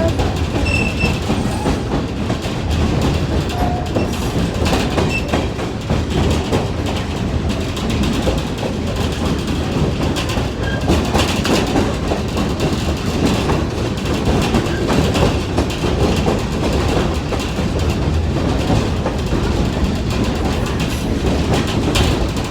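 Passenger train car rolling along the track, heard from aboard: a steady rumble with rattling and clatter of wheels on rail.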